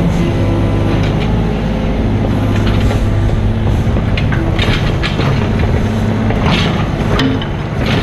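Mini excavator's diesel engine running steadily, with a few short clanks and scrapes in the second half.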